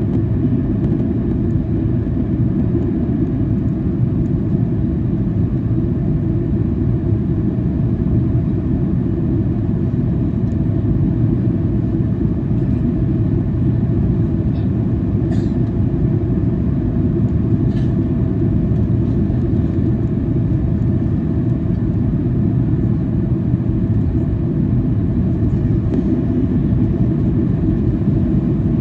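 Steady low cabin drone of a Boeing 737-800 airliner, with engine and airflow noise heard from a window seat. A couple of faint ticks come near the middle.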